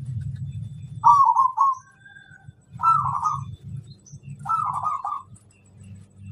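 Zebra dove (perkutut) cooing: three short, rolling, bubbling song phrases, each under a second, spaced about a second and a half apart, over a low background hum.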